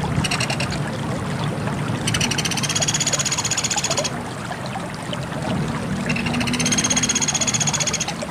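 Sunda pygmy woodpecker (pelatuk beras) giving fast, even trills: a short burst at the start, then two longer trills of about two seconds each. Under them runs a steady rushing noise with a low hum.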